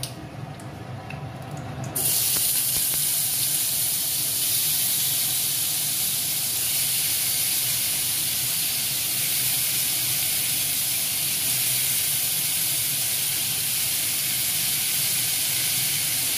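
Raw potato cubes frying in hot oil in a kadhai: a loud, steady sizzle that starts suddenly about two seconds in.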